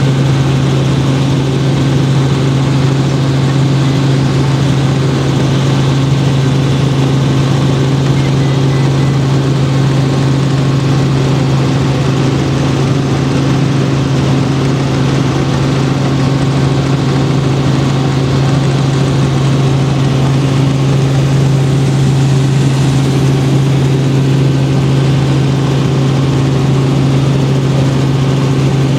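Helicopter engine and rotor running steadily, a loud, unchanging low hum with a noisy rush above it.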